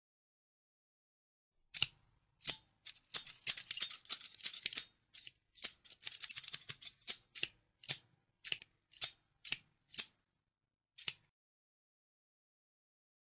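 Scissors snipping: a run of sharp snips starting about two seconds in, bunched into quick flurries, then slowing to single snips about half a second apart and stopping near eleven seconds.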